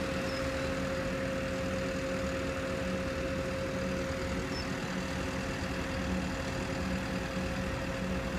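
Tow truck's engine idling steadily, with a constant whine over the low running.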